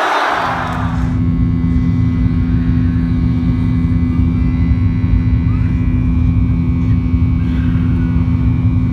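Steady low mechanical drone with constant humming tones, as of a vehicle running.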